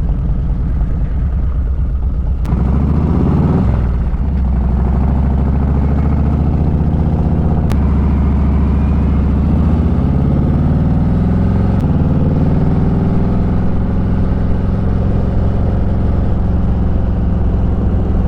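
Motorcycle engine running under the rider, pulling away and changing gear; the engine note drops and climbs again at each shift, about three times.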